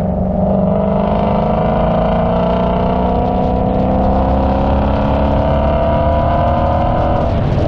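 Car engine accelerating under load, its pitch climbing slowly and steadily, then dropping sharply near the end.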